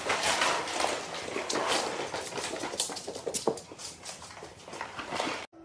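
A stuck pet struggling, with busy scrabbling, scratching and rustling that stops suddenly near the end.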